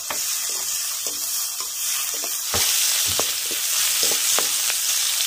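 Sliced onions sizzling as they fry in hot oil in a metal kadhai, with a metal spoon scraping and knocking against the pan as they are stirred. The sizzle gets louder about two and a half seconds in.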